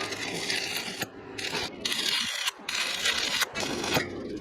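Harsh scraping, crackling metalwork noise on a steel brazier under construction, coming in stretches broken by several short, sudden gaps.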